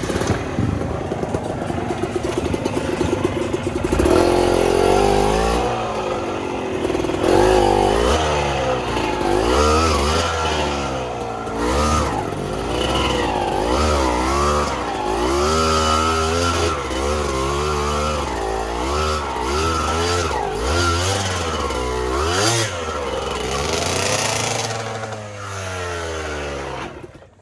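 Suzuki TS125X two-stroke single-cylinder trail motorcycle engine revving up and down again and again as it is ridden, the pitch rising and falling every second or two.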